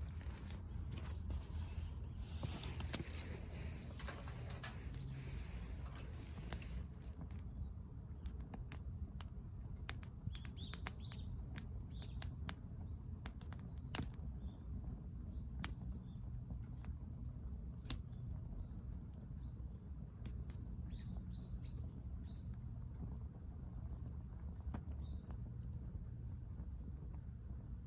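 Wood fire burning in a fire pit, crackling with scattered sharp pops, and a rushing hiss for the first several seconds. Small bird chirps are faint in the background.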